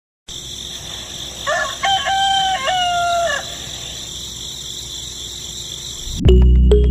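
A rooster crows once, about a second and a half in, over a steady high hiss of outdoor background. Loud music starts abruptly near the end.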